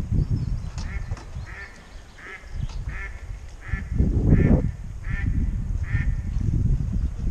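A bird calling in a series of about eight short squawks, evenly spaced roughly 0.7 s apart, over a low rumble, with a louder low noise about four seconds in.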